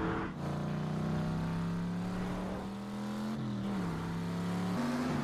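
Car engines running at speed in a film car chase, a steady drone that bends in pitch about three and a half seconds in and steps up near the end.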